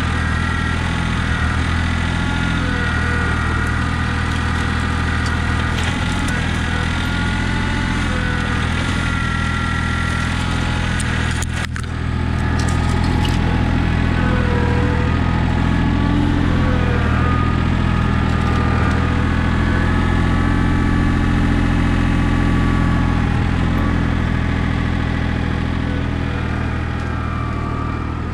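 Compact diesel tractor engine running steadily, with a higher whine above it, and a brief dip about twelve seconds in.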